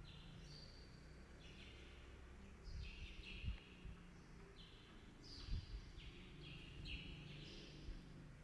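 Faint bird chirping in short, repeated twittering phrases about once a second, over a low rumble with a few soft thumps.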